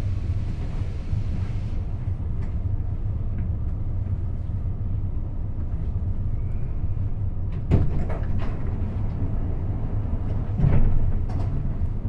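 Cabin noise inside a CAF AS-14 metro car: a steady low hum with a hiss that fades out about two seconds in. Two sharp knocks come later, about three seconds apart.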